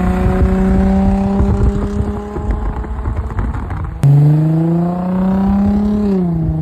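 Nissan 350Z's 3.5-litre V6 running through an Invidia N1 exhaust, its pitch climbing slowly. It breaks off abruptly about four seconds in, comes back louder and climbing again, then falls away near the end.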